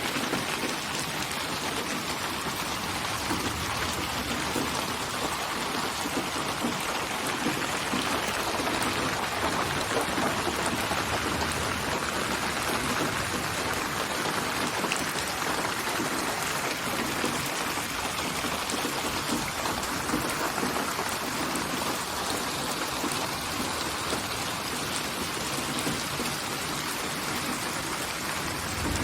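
Steady rain falling, an even hiss of drops on a surface that holds level throughout.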